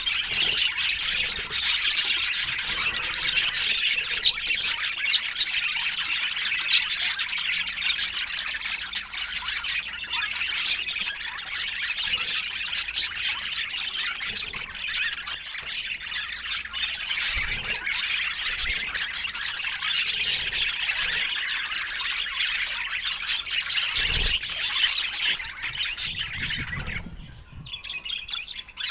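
Pet budgerigars chattering and warbling without a break, a dense mix of quick chirps and squawks; the chatter thins out briefly near the end.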